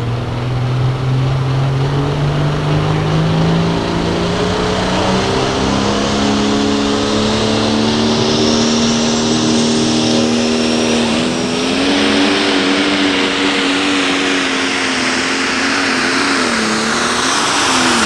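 Light Pro Stock pulling tractor's turbocharged diesel engine running hard under load down the pull track. Its pitch climbs over the first several seconds and holds high, steps up again past the middle and dips briefly, then starts to fall right at the end as the throttle comes off. A thin high whine rises over it from about halfway.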